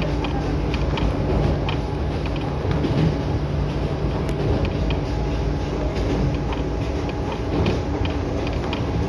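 Two-car electric train running between stations, heard from inside the carriage: a steady rumble of wheels and running gear with a low hum, and many short clicks and creaks from the car body.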